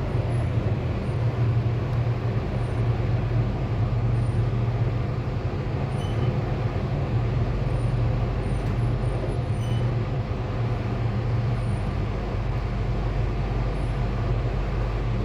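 Sydney Metro Alstom Metropolis driverless train running at speed between stations, heard from inside the carriage: a steady low hum and rumble of the traction motors and wheels on the rails.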